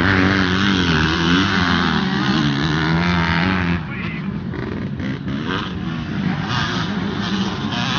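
Motocross dirt bike engines revving loud, the pitch rising and falling with the throttle, then dropping back about four seconds in.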